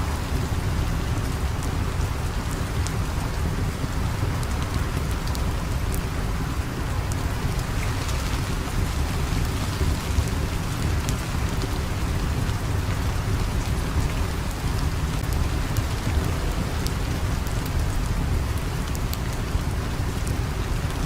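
Steady rain falling, an even hiss with a strong low rumble underneath and scattered faint sharp ticks.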